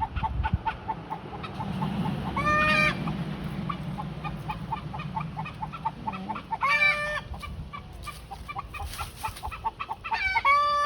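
Roosters crowing three times, each crow under a second long, over steady rapid clucking from the flock. The birds are stirred up and alerting to something they have noticed.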